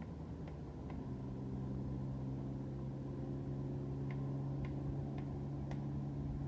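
An engine running with a steady low hum that grows louder about a second in, with a few faint short high chirps over it.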